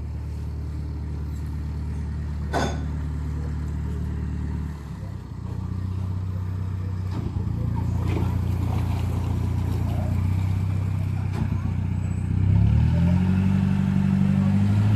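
Motor vehicle engine running steadily under road noise. The engine note drops briefly about five seconds in, then rises and holds at a higher pitch from about twelve seconds in. A single sharp click sounds about two and a half seconds in.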